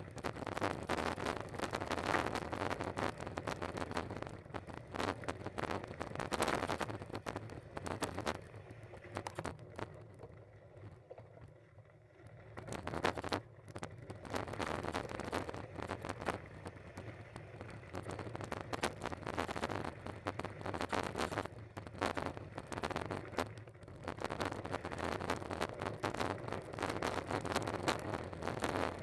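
Riding noise picked up by a camera on a moving bike: a continuous rush of wind with crackling and rattling as it rolls over rough ground. It eases off for a few seconds around the middle, then picks up again.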